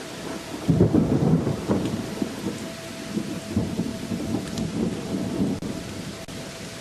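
A roll of thunder over steady rain: the rumble breaks in about a second in, is loudest at first, then rolls on in waves and fades away near the end, while the rain hiss keeps on underneath.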